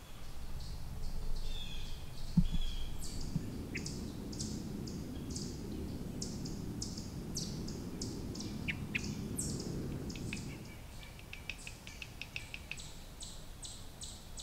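Woodland birds chirping with short, high notes, then a fast run of ticking notes about eleven seconds in. Underneath is a low rushing noise that fades out about ten and a half seconds in, and there is a single sharp knock about two and a half seconds in.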